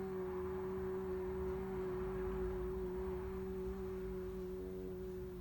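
Voice holding a long, steady 'oo' (Russian 'У') vowel at one unchanging pitch, as a breathing and sound-healing exercise, easing off slightly near the end.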